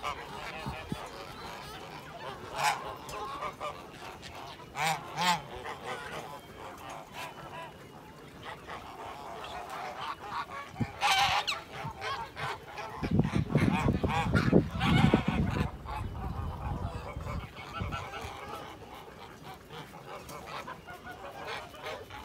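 Bird calls, short and repeated at intervals of a few seconds, with a spell of low rumbling noise a little past the middle.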